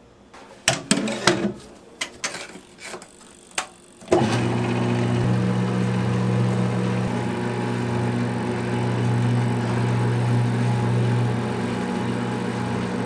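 Several knocks and clatters of handling, then about four seconds in a motor-driven machine switches on and runs with a steady hum.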